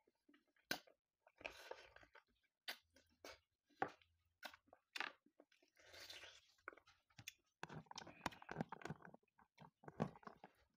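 Close-miked chewing of a mouthful of rice and buffalo meat curry eaten by hand: short bursts of chewing with sharp mouth clicks and crunches, separated by brief quiet gaps.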